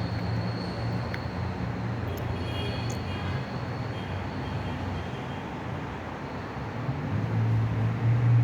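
A steady low mechanical hum over a constant rumbling noise, growing louder about seven seconds in.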